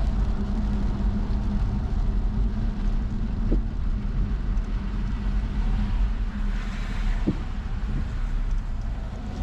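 Car driving: steady low road and engine rumble with a constant hum, and a couple of faint short ticks.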